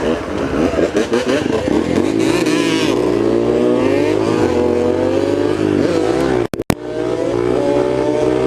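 Small single-cylinder four-stroke dirt bike engine, a Yamaha TT-R125, riding along with wind noise. Its pitch rises and falls as the throttle is worked. The sound cuts out briefly about two-thirds of the way through.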